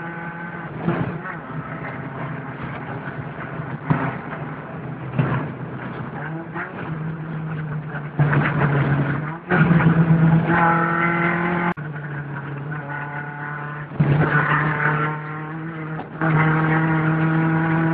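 VW Golf Mk2 rally car's engine heard from inside the cabin, pulling hard in surges and easing off. About ten seconds in its note climbs, then cuts off sharply before it pulls again. Scattered knocks and rattles come through as the car runs over the rough dirt track.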